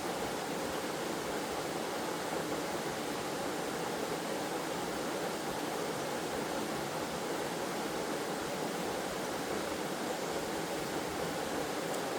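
Waterfall and stream water rushing steadily, an even full hiss with most of its weight in the low middle.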